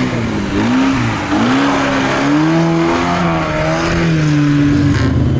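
Off-road 4x4's engine revving under load, its pitch dipping and rising a few times, then holding higher before falling away near the end.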